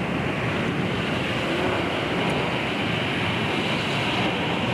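Heavy thunderstorm rain pouring steadily, a constant rushing noise with no breaks or single impacts.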